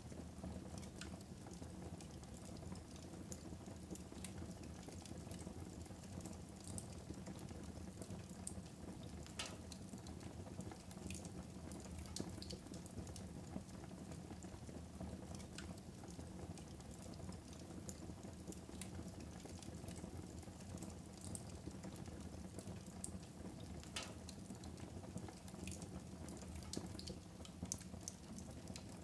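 Wood fire burning in a fireplace: a steady low hiss of flames with scattered sharp crackles and pops.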